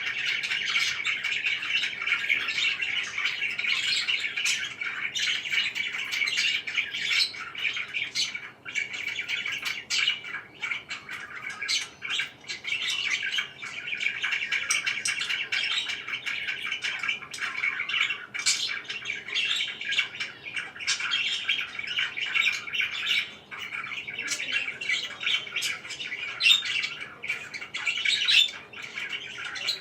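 Parakeets chirping and chattering in a steady, unbroken stream, with sharper, louder calls now and then.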